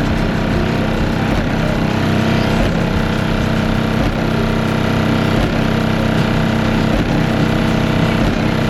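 Car audio system playing loud bass at a demo: a steady buzzing drone with a faint pulse about every second and a third.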